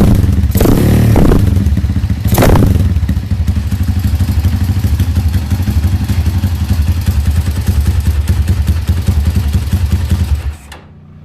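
Motorcycle engine running through a custom chrome aftermarket exhaust silencer, revved in two short blips in the first three seconds, then idling with a steady, rapid exhaust beat. The sound cuts off abruptly near the end.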